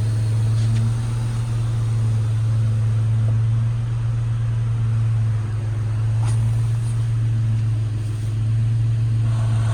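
2009 Nissan Murano's 3.5-litre V6 engine idling steadily with an even low hum.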